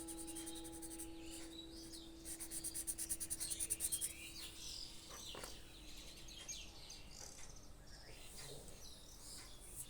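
Birds chirping and singing with a fast insect-like trill from about two to four seconds in, while a held music note fades away in the first few seconds.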